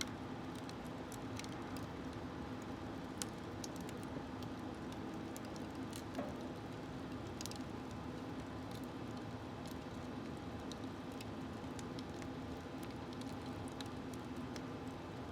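Wood fire burning in a small smokeless wood stove: scattered sharp crackles and pops over a steady low rushing of the flames.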